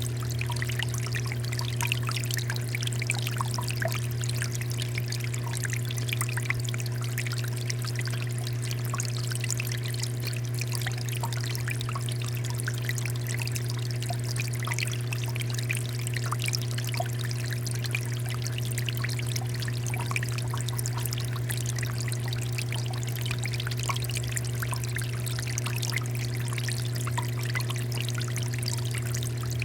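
Water fountain flowing and splashing steadily in a continuous pour and trickle, with a steady low hum underneath.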